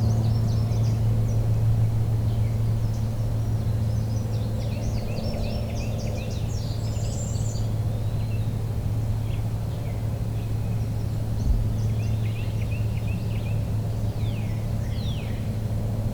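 Songbirds chirping and trilling in short bursts over a steady low hum.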